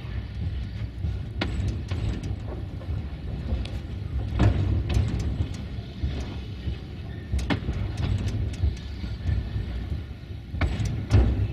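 Narrow-gauge train rolling slowly along the track: a steady low rumble of wheels on rail, with occasional sharp clicks and knocks from the wheels and rails.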